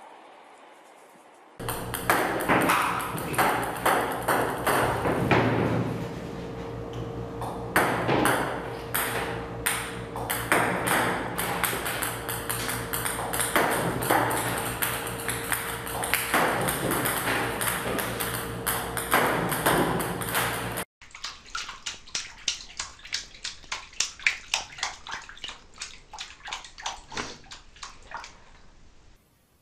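Table-tennis robot firing balls in quick succession, the balls clicking and bouncing on the table over the robot's steady motor hum. After a cut, water sloshing in a bathtub in a quieter run of regular splashes, about two a second.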